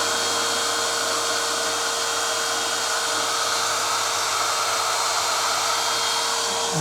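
Numatic Henry NRV240-11 vacuum cleaner's 620 W motor running steadily at full speed: a steady whine over a broad rush of air.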